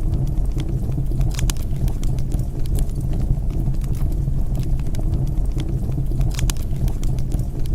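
Wood fire in a fireplace crackling and popping over a steady low rumble of burning, with clusters of louder sharp pops about a second and a half in and again near the end.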